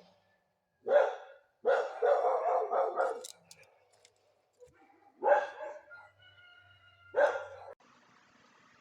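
A dog barking: one bark about a second in, a longer run of barks over the next second and a half, then two more single barks about two seconds apart.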